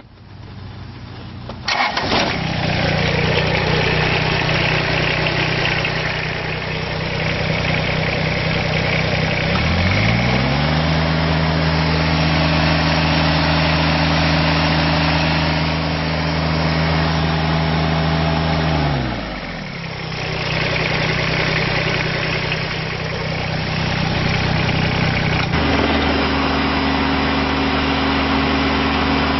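2012 Kubota BX25D compact tractor's three-cylinder diesel engine cranked by the starter, catching about two seconds in and settling to idle. About ten seconds in it revs up, holds the higher speed, and drops back to idle shortly before the twenty-second mark; near the end the engine speed steps up slightly.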